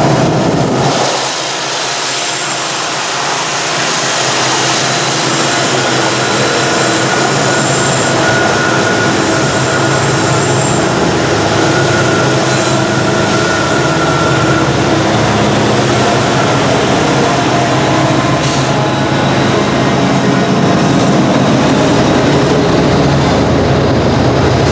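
Diesel freight locomotives on the head end of a loaded sand train, working hard at a crawl up a grade and close to stalling, with a steady engine drone. Freeway traffic noise is mixed in.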